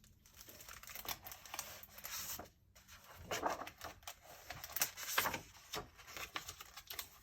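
Paper rustling and soft irregular clicks of a picture book being handled and its pages turned.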